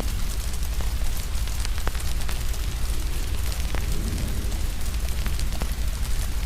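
Steady rain hiss over a low rumble, with frequent sharp, irregular crackles and pops from a fire.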